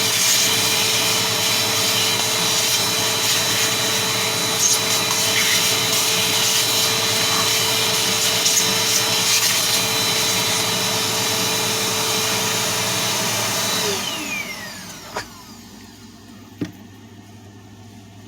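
An electric cleaning motor, vacuum- or blower-type, runs with a steady rushing hiss and a constant whine while dust is cleaned off the fan parts. About 14 seconds in it is switched off and winds down with a falling whine. Two sharp clicks follow.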